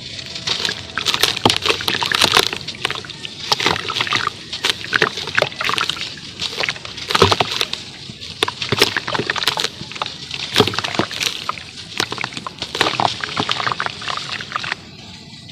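Charcoal crumbling in water: a dense, irregular run of crackles, pops and wet sloshing that stops near the end.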